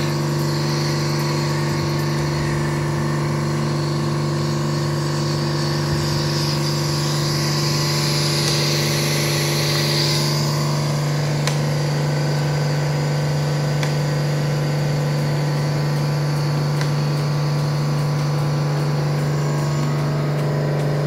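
Vacuum leak tester running with a steady low hum, while its vacuum chamber is vented back to air; a soft rush of air swells and fades between about six and ten seconds in.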